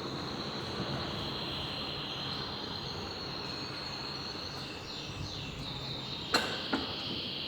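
Insects, cicada-like, droning steadily at a high pitch, with two sharp knocks about a third of a second apart near the end.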